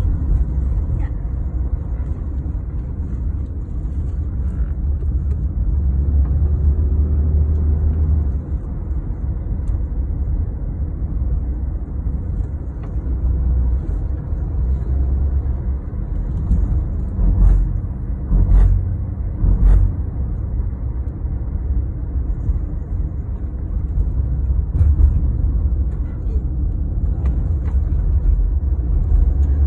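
Steady low rumble of a car on the road, with a few short knocks about two-thirds of the way through.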